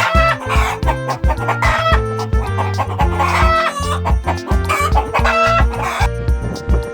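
Chicken clucking and calling over background music with a steady beat; the chicken calls stop about six seconds in.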